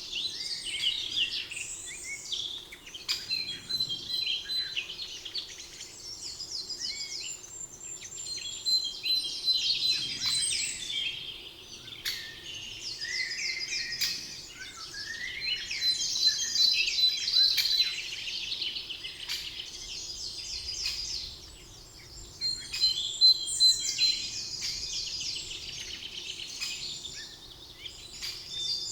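Several songbirds singing together in a spring forest chorus, rapid trilled phrases following one another with hardly a pause, over a faint steady low background hum.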